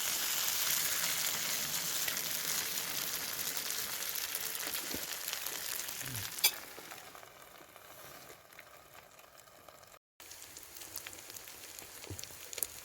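Chicken tikka masala paste frying and sizzling in a hot pan, a steady hiss. It drops much quieter after a sharp click about six seconds in.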